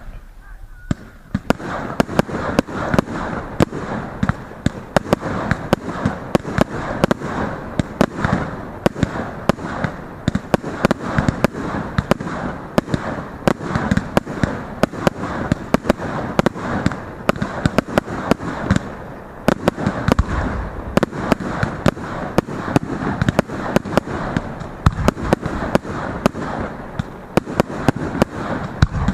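Fireworks going off in a long, rapid barrage of sharp bangs over continuous crackling, starting about a second in.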